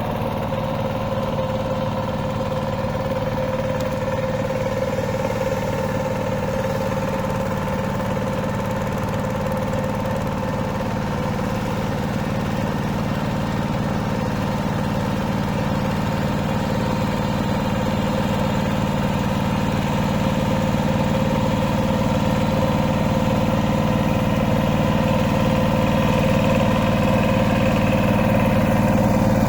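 Two-wheel hand tractor's engine running steadily, growing a little louder in the last third.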